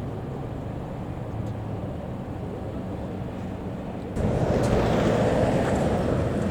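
Outdoor street ambience with a steady low engine hum. About four seconds in it cuts abruptly to a louder, broad rushing noise.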